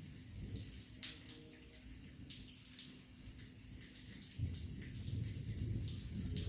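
Heavy thunderstorm rain falling, with many sharp drop strikes close by over a steady hiss. A low rumble swells in about four seconds in.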